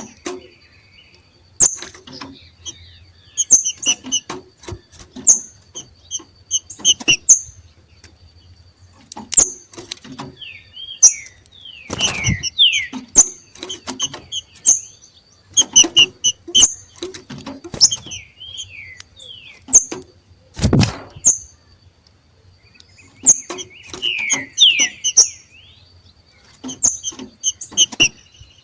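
Green-winged saltators (trinca-ferro) giving their 'macheado' calls: bursts of sharp clicking notes mixed with quick descending slurs, repeated every second or two. A thin steady high tone runs behind, and two louder low thumps come about 12 and 21 seconds in.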